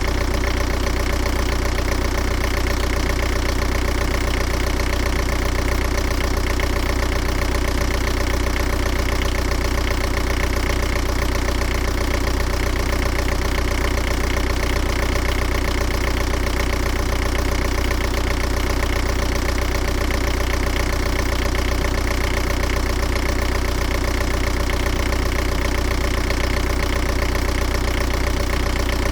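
Steady low mechanical drone like an idling engine, with a strong deep hum that pulses evenly and never changes.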